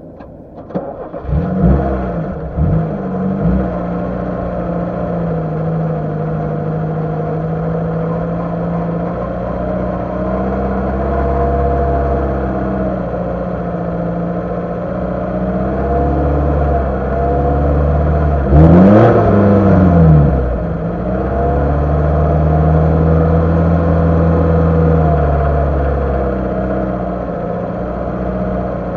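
Lada Niva engine running under load off-road, its pitch rising and falling with the throttle, with a few quick revs near the start and a sharp rev and drop about two-thirds of the way in.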